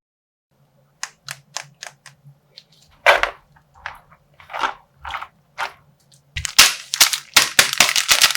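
A string of sharp pops, about two a second, from a slime-filled plastic blind bag being popped. From about six seconds in they give way to a dense, rapid crackling of plastic as the bag is torn open.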